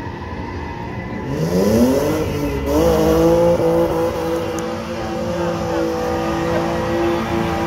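Drift car's engine revving up quickly about a second and a half in, dipping briefly, then held at steady high revs.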